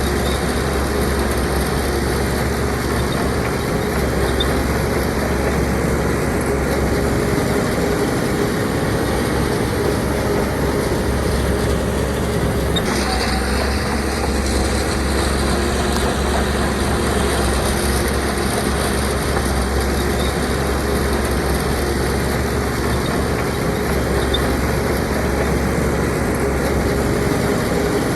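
Heavy diesel earthmoving machinery running steadily under load, with a slight change in its sound about halfway through.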